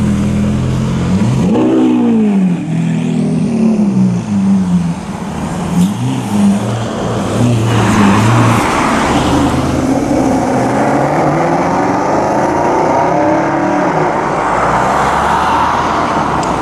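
Lamborghini Aventador's V12 engine revving as it pulls away, its pitch rising and falling in short surges. About halfway through, a Mercedes SLS AMG's V8 takes over, accelerating hard with its pitch climbing.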